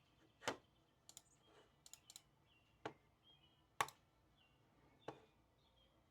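A quiet room with scattered, irregular sharp clicks and taps from desk work, about six of them, the loudest nearly four seconds in.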